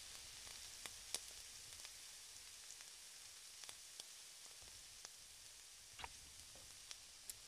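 Faint sizzling of an egg-and-oyster omelette frying in oil in a nonstick pan: a soft steady hiss with scattered small pops.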